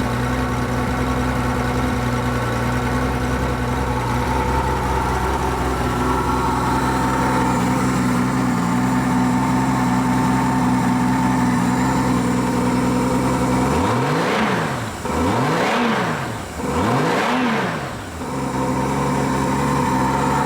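1993 Honda Gold Wing GL1500 Interstate's flat-six engine idling steadily, then revved three times in quick succession about two-thirds of the way through, each rev rising and falling in pitch, before settling back to idle.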